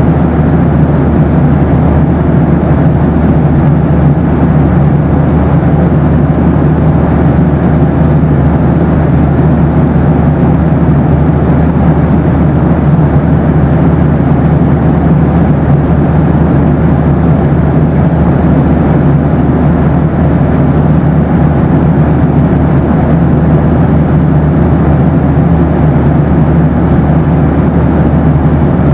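Boeing 737 cabin noise: a steady, even rush of engine and airflow noise, heaviest in the low end, with a faint low hum and no change throughout.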